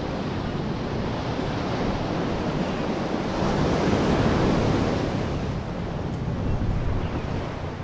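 Sea waves washing, with wind blowing on the microphone; the rush of water swells louder for a couple of seconds about halfway through.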